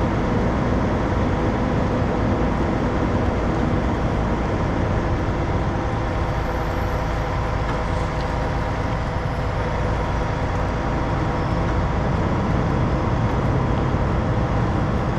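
Heavy diesel truck engine running at a steady speed.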